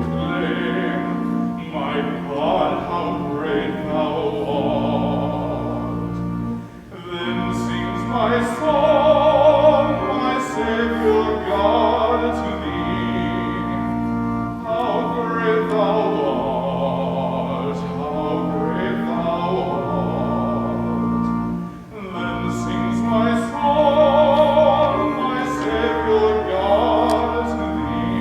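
Classical-style singing with a wide vibrato over sustained accompanying chords, in long phrases with short breaks between them.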